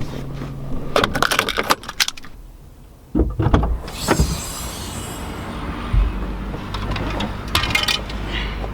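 Car sounds: a quick series of clicks, knocks and rattles, then from about three seconds in a car's low steady running rumble with occasional knocks.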